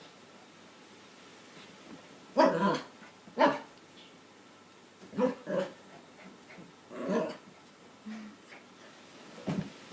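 A dog barking in short single barks, about six at irregular intervals.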